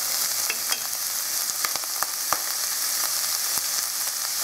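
Chopped green onion scapes sizzling in melted ghee in an uncovered stainless steel frying pan over fairly high heat: a steady hiss with scattered sharp pops.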